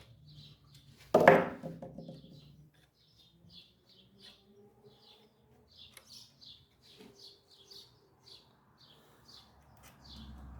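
Small birds chirping repeatedly, two or three short high chirps a second. About a second in there is one loud clank, from work on the engine as the ignition coil bolts are loosened.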